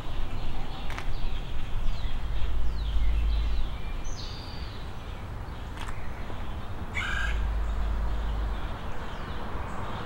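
Birds calling outside: several short, high, falling chirps, then one harsh cawing call about seven seconds in, over a low rumble that comes and goes.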